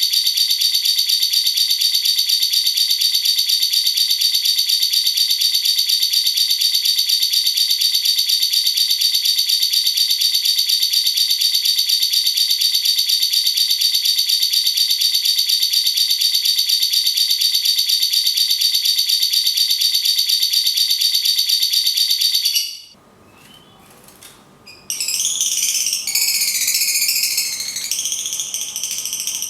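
Lovebird's 'ngekek' call: a very long, rapid, high-pitched chattering trill, perfectly even, that cuts off suddenly about 23 seconds in. After a short lull, another songbird sings a varied warbling song near the end.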